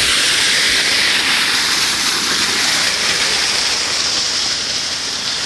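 Rainwater runoff rushing steadily through a farm pond's overflow channel over riprap, a loud even hiss of running water; the pond is overflowing after a couple inches of fast rain.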